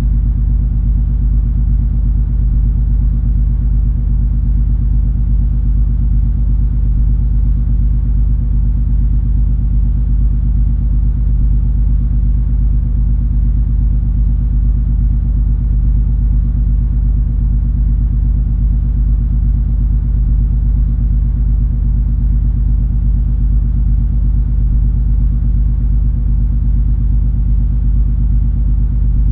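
The MS Color Fantasy cruise ferry's engines running underway, a steady deep rumble and hum that does not change.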